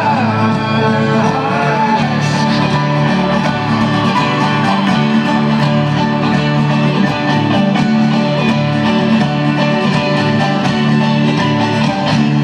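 Folk-rock band playing live: an instrumental passage of strummed acoustic guitar and banjo over bass and drums, holding dense, sustained chords.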